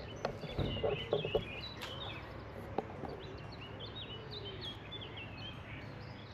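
Birds chirping: a run of short, high notes repeating over a steady outdoor background hiss.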